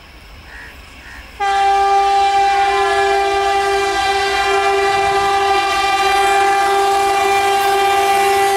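Indian Railways locomotive horn sounding one long, loud, steady blast that starts abruptly about a second and a half in.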